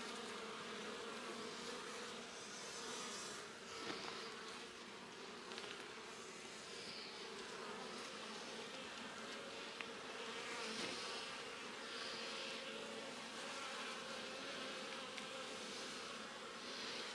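Honeybee colony buzzing steadily from an opened hive, a continuous hum with a few faint knocks now and then.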